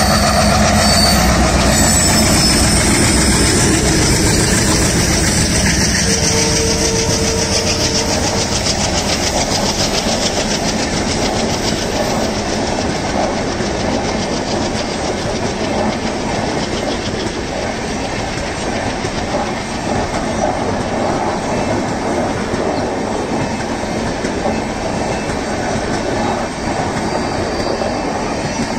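Twin ALCo diesel locomotives passing close by, their engines loud for the first several seconds, then the passenger coaches rolling past with a steady clickety-clack of wheels over rail joints.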